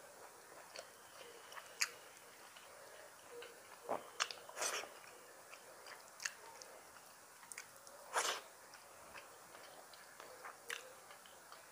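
Close-miked mouth sounds of a person eating rice and curry by hand: soft chewing with many small wet clicks and lip smacks, and a few louder smacks about four to five seconds in and again around eight seconds.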